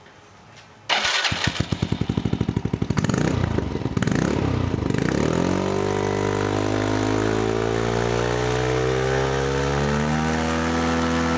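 Yamaha Majesty 125 FI scooter engine being started: about a second in it cranks with a fast even pulsing, catches, and within a few seconds settles into a steady idle.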